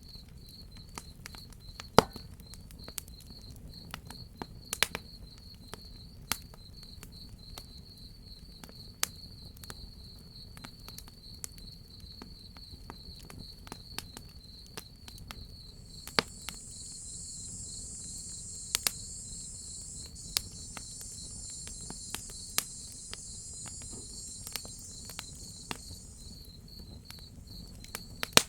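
Crickets chirping in a steady, fast pulsing trill, with scattered sharp crackles and pops from a wood fire. A higher, hissing insect buzz joins about halfway through and drops out near the end.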